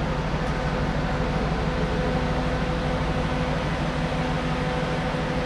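Steady drone of a ship's machinery, a low hum with a few steady tones over a rushing noise, unchanging throughout.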